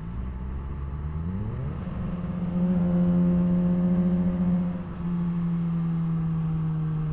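2007 Suzuki GSX-R600's inline-four engine through a straight-pipe exhaust, revving up in rising pitch about a second in, then holding steady. Around five seconds in the sound dips briefly, then settles into a steady note that slowly falls in pitch.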